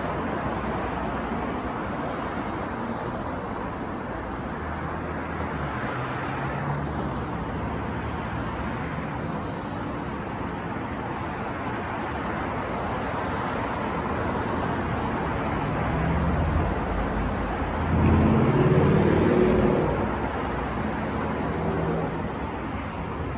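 City street traffic: a steady wash of passing cars. About three-quarters of the way through, one vehicle's engine grows louder as it passes close, then fades.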